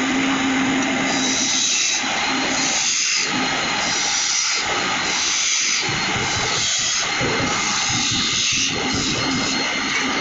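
Wood lathe running while a turning tool cuts the spinning wood: a steady rushing hiss that swells and eases every second or so, with a low hum that comes and goes.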